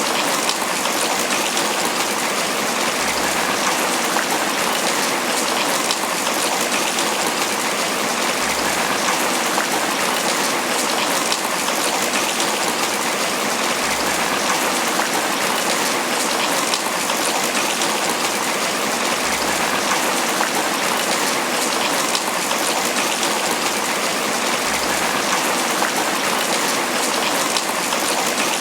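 Steady tropical rain falling on banana leaves, an even, unbroken patter of drops.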